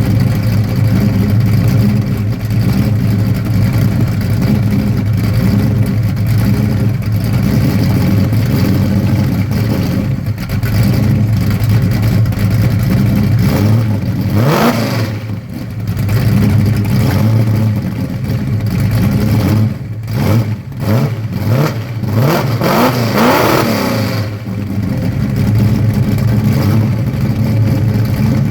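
1967 Mustang's 351 Cleveland V8 idling through Hooker headers, an X-pipe and 2.5-inch Pypes race exhaust. It is revved once about halfway through, then blipped several more times a few seconds later, each time settling back to idle.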